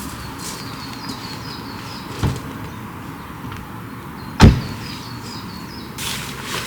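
Two dull thumps about two seconds apart, the second louder, over a steady outdoor background, with runs of short high chirping notes and a brief rustle near the end.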